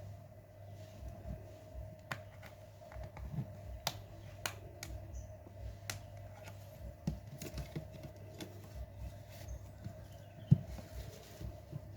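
Small irregular clicks and taps of a Samsung Galaxy GT-I8262 smartphone's plastic and metal parts being handled and pried during disassembly, over a steady hum. One louder knock comes about ten and a half seconds in.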